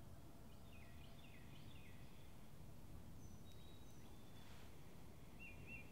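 Faint birdsong over a low, steady background hum: a run of short chirps, a few thin whistled notes, then a quick warbling trill near the end.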